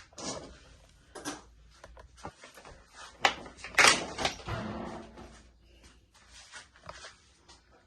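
Irregular knocks, clicks and clanks of hand tools and metal parts being handled during engine work, with the loudest clatter about four seconds in.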